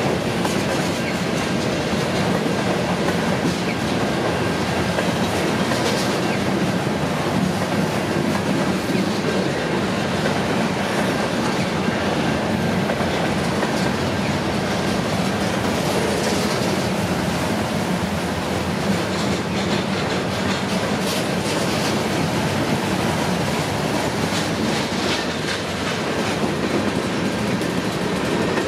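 Freight cars rolling past close by: a steady rumble and clatter of steel wheels on the rails, with a few brief high squeals from the wheels.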